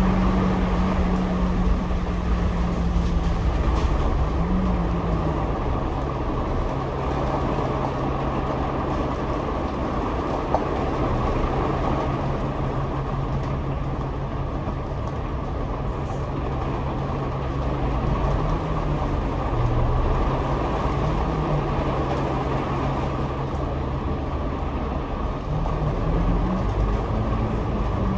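Double-decker bus heard from the upper deck: engine and road noise with a steady low hum. The hum drops in pitch about five seconds in, holds, and rises again near the end.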